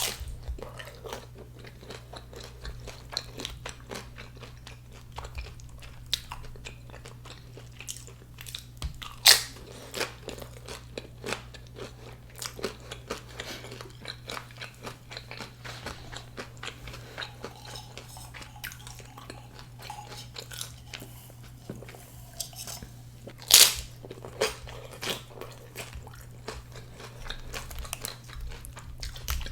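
Close-up crunchy chewing and biting of nacho tortilla chips, with dense crackling throughout and two loud crunching bites, one about nine seconds in and one a little before the end. A steady low hum sits underneath.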